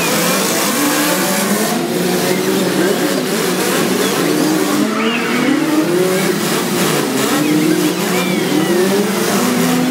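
Several demolition derby cars' engines revving up and down together, their pitches rising and falling over one another.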